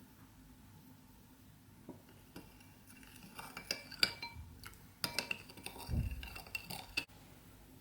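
Kitchen utensil stirring in a bowl, clinking and scraping against its side in a quick irregular run, with a dull knock about six seconds in.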